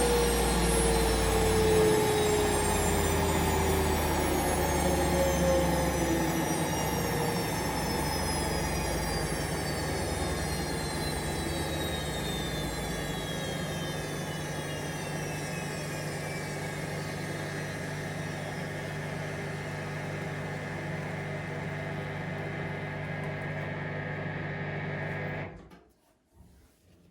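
Hoover Vision Dynamic washing machine winding down from a spin: the motor's whine falls slowly and steadily in pitch as the drum slows over a steady hum, and the sound cuts off about 25 seconds in.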